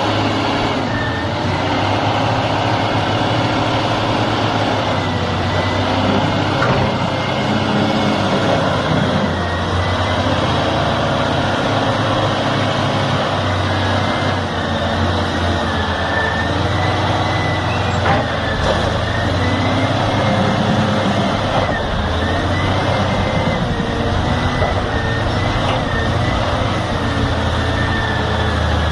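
Heavy vehicle's diesel engine running steadily, with a faint wavering high whine over the low drone.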